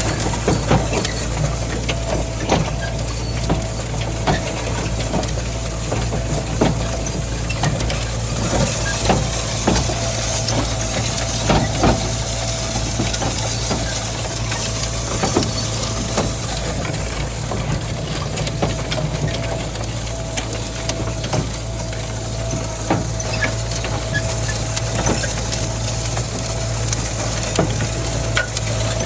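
Kubota M9000 tractor's diesel engine running steadily while pulling a corn planter across the field, with frequent light clicks and rattles throughout.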